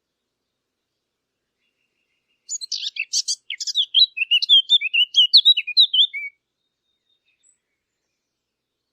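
A Sylvia warbler, the bird called 'fig bird' (beccafico), singing one phrase about four seconds long starting a couple of seconds in: scratchy chattering notes that turn into a quick run of clear warbled whistles.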